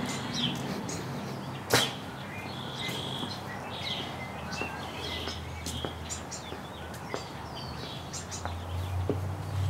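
Small birds chirping and calling repeatedly, with one sharp click about two seconds in.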